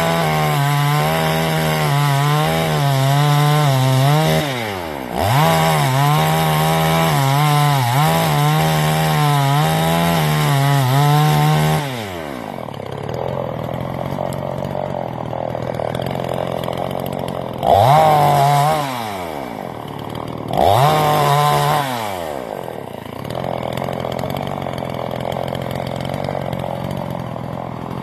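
Generic 45cc two-stroke gas chainsaw at full throttle cutting through wood, engine speed wavering under load. It eases off for a moment about four and a half seconds in and resumes the cut. About twelve seconds in it drops to idle, with two short blips of the throttle later on.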